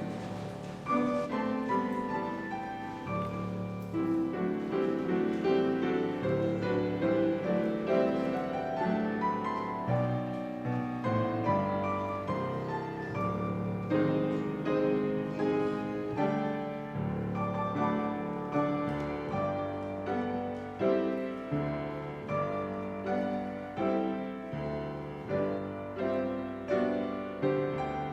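Solo piano playing a slow, classical-style piece, struck notes sustaining and overlapping.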